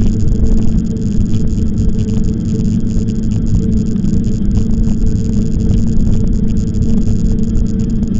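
Riding an e-bike: wind buffeting the microphone, with a steady low hum and light rattling throughout.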